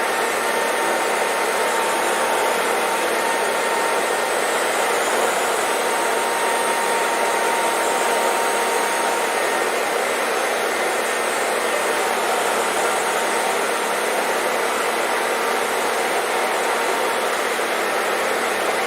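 Hair dryer running steadily: an even, unchanging rush of air with a faint steady whine in it.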